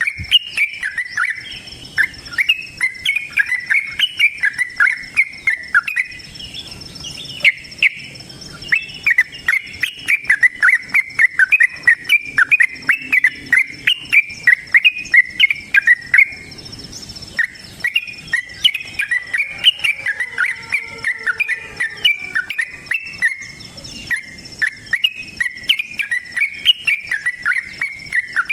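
Trucukan (yellow-vented bulbul) giving its fighting call in long, rapid chattering runs of short, bubbly notes, with a brief lull about two-thirds of the way through. A steady high insect whine runs underneath.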